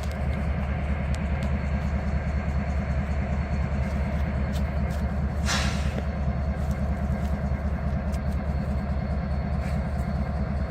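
A standing train's locomotive powering up, a steady low rumble, with a short hiss about five and a half seconds in.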